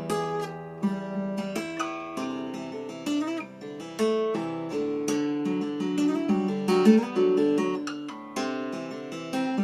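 Freshly restrung acoustic guitar being played: chords struck about once a second and left to ring, with single picked notes moving between them.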